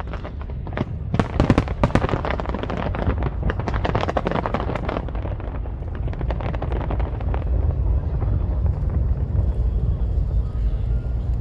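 Fireworks going off in a dense rapid run of bangs and crackles that thins out about two-thirds of the way through, leaving a steady low rumble.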